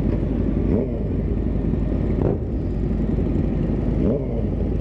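Vehicle engines running with a steady low rumble, and three short throttle blips that rise and fall in pitch.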